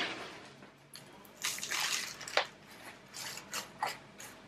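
Potting handling noises: a sharp click about a second in, then a string of short rustling, scraping bursts as a cactus cutting, pot and gritty potting mix are handled.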